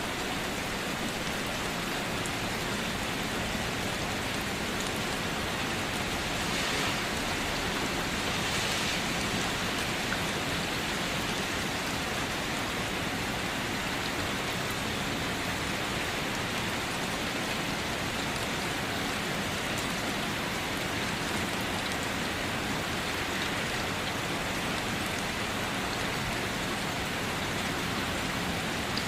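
Steady rain falling, an even hiss of drops with a brief slight swell a few seconds in.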